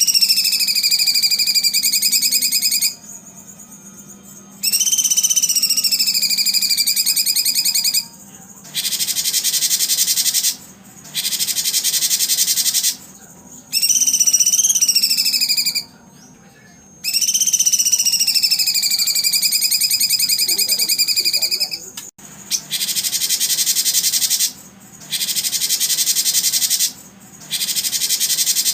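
Songbird song on a competition-bird training track: long whistled notes that rise briefly, slide down and level off, alternating with short bursts of a rapid buzzy trill, the pattern repeating every few seconds.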